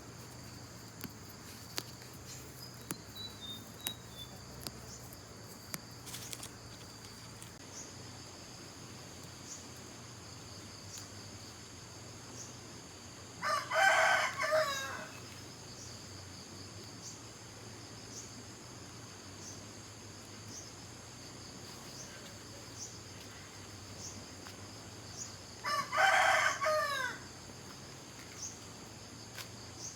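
A rooster crowing twice, about twelve seconds apart, each crow ending in a falling note. Under it, a steady high chirring of insects with a faint pulse about once a second.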